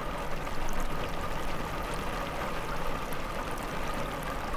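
Steady rain ambience: a continuous even hiss of falling rain with faint scattered drop ticks.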